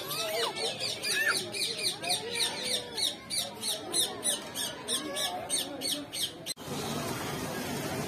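Birds in an aviary chirping in a rapid run of short, sharp, high chirps, about three a second, over faint voices. The chirping cuts off suddenly about six and a half seconds in and gives way to a steady rushing noise.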